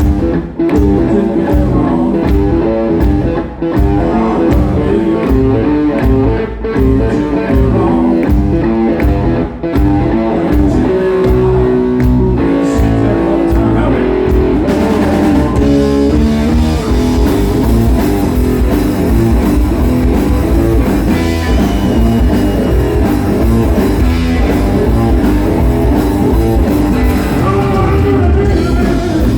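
Live electric blues band playing a slow blues, with electric guitar over bass and drums. For the first half the band plays short, evenly spaced hits with brief gaps, then it plays continuously from about halfway.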